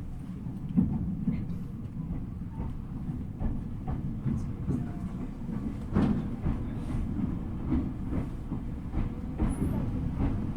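Ueda Electric Railway 1000-series electric train heard from inside the car: a steady low rumble of the running gear, with scattered clicks and knocks of the wheels over rail joints.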